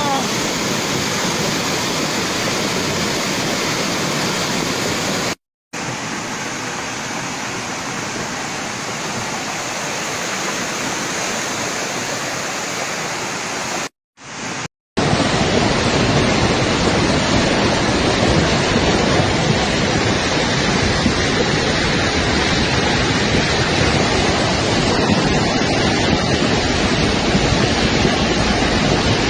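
Floodwater rushing in a strong, steady torrent. It breaks off briefly twice, about five seconds in and about fourteen seconds in, where the recording changes.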